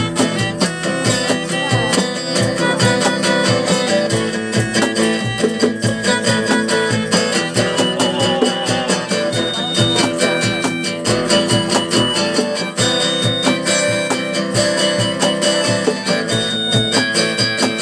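Instrumental break of a live acoustic rock song: a guitar strummed in a steady driving rhythm, with a melody line of short held high notes over it.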